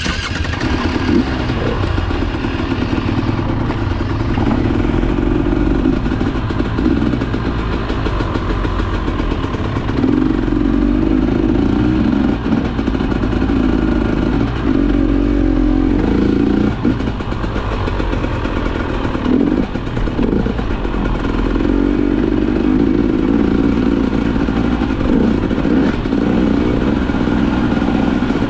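KTM enduro motorcycle engine running hard as the bike is ridden off-road, its note dropping briefly a few times as the throttle is rolled off or gears change.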